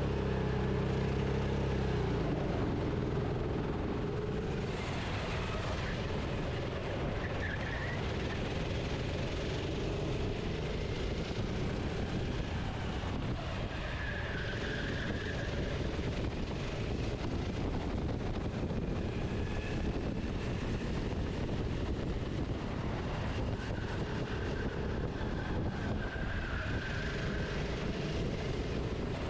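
Racing kart engine running on board, heard through the camera microphone with wind and track noise.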